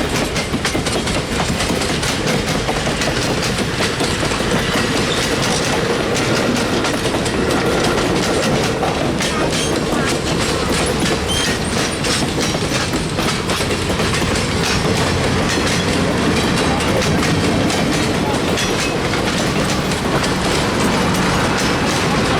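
Steam-hauled excursion train rolling past, its wheels clicking steadily over the rail joints in a continuous rattle.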